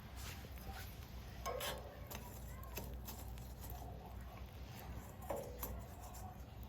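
Wood fire crackling in a homemade stainless-steel secondary-combustion fire pit, scattered sharp ticks and pops, with a few short metallic clinks that ring briefly, about a second and a half in and again near the end.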